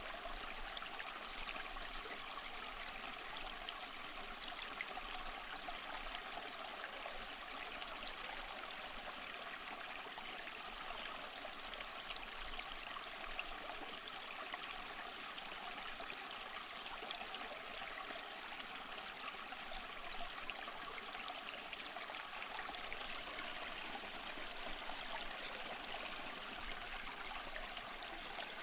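Running water: a steady rushing of a waterfall or stream, with the sound mostly in the middle and upper range and little low rumble.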